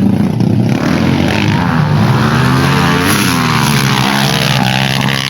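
Several motorcycle engines running at once: a steady drone, with one engine's revs rising and then falling in the middle.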